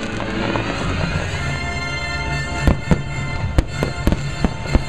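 Fireworks display with show music playing throughout; from about halfway in, aerial shells burst in a quick string of sharp bangs, about seven in two seconds.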